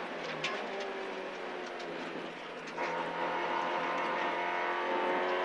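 VW Polo 1.4 rally car's engine running hard under load, heard from inside the cabin with road noise. About three seconds in it dips briefly, then pulls louder.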